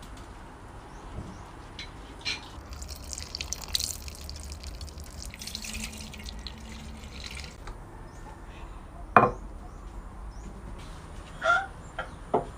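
Water splashing and dripping, as in washing at a sink or basin, with a few sharp knocks; the loudest knock comes about nine seconds in.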